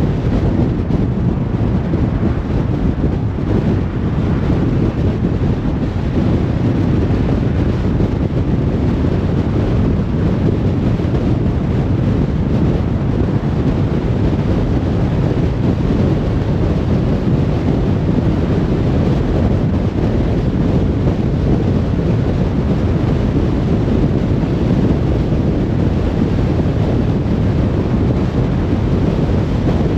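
A car cruising on a motorway: steady road and wind noise, a deep, even rumble with no changes.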